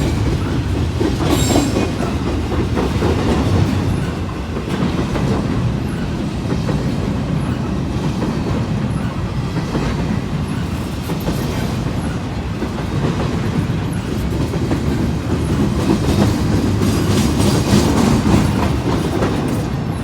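Intermodal freight train's cars rolling past close by: a steady, loud rumble with the clickety-clack of wheels over the rail joints.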